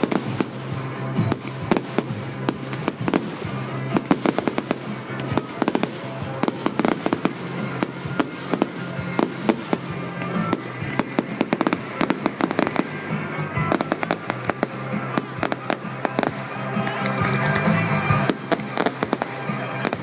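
Fireworks display: a dense, continuous run of sharp cracks and bangs, over music with steady low notes.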